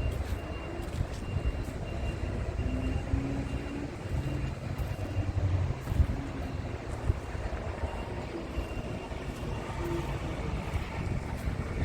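Scania G450 tractor unit's inline-six diesel engine running at low speed, a steady low rumble.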